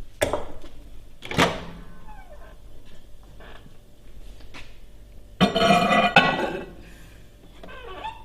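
Microwave oven door opened and shut with two sharp clunks, then a few faint clicks as it is set going. About five seconds in comes the loudest sound, a loud, rough sound lasting about a second.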